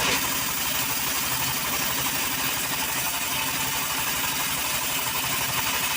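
An engine running steadily with a rapid, even firing beat and no change in speed.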